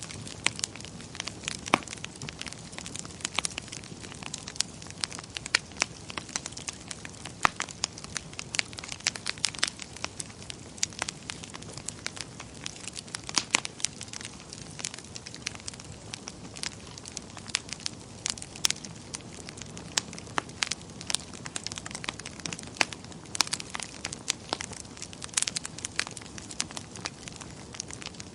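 Wood fire crackling in a fireplace, with many irregular sharp pops and snaps over a steady low hiss of flames.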